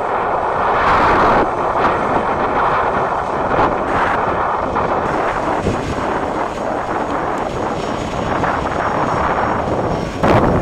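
Airliner engines running: a loud, steady rush with a faint high whine over it.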